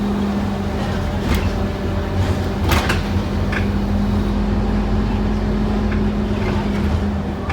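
Interior of a Scania N230UD OmniCity double-decker bus under way: its five-cylinder diesel engine runs with a low rumble and a steady hum that drops away about seven seconds in. A few short rattles from the body come through, one about a second in and one near three seconds.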